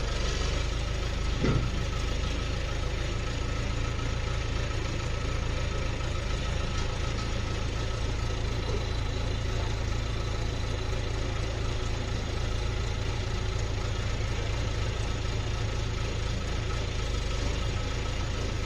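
Skid steer engine running steadily, with one short thump about a second and a half in.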